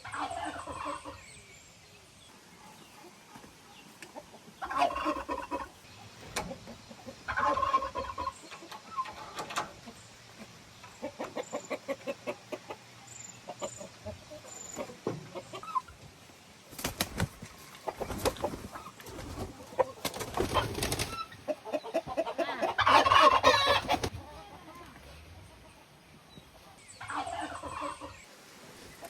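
Chickens clucking and calling in repeated bouts, the loudest about 23 seconds in.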